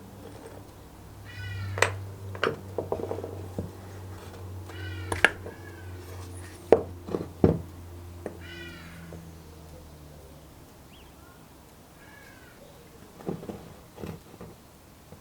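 A cat meowing repeatedly in short rising-and-falling calls, mixed with several sharp clicks and knocks. A low steady hum fades out past the middle.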